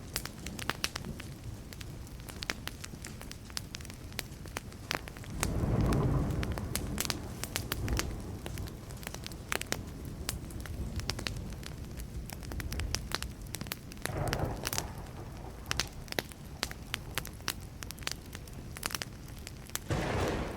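Wood fire crackling steadily, with many sharp pops. Low rumbles of distant thunder swell about six seconds in, again near the middle and at the end; the first is the loudest.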